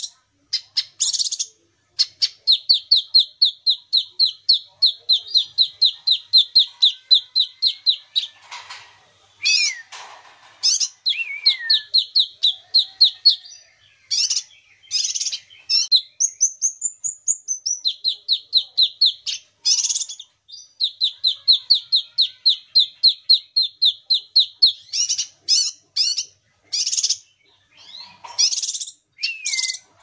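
A kinoi singing vigorously: long runs of rapid repeated chirps, about five a second, broken by sharper single calls and one high whistled note about halfway through.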